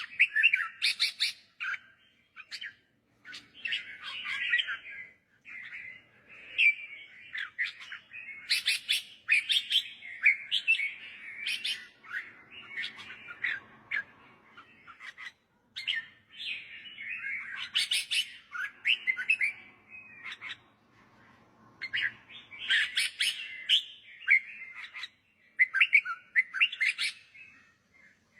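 Red-whiskered bulbul singing: short, lively chirping phrases repeated over and over with brief pauses between them, of the kind used as a teacher-bird song to train young bulbuls.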